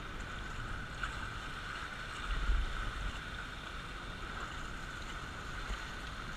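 Raft sliding down a water-slide flume: a steady rush of running water with wind on the microphone, and a low bump a little over two seconds in.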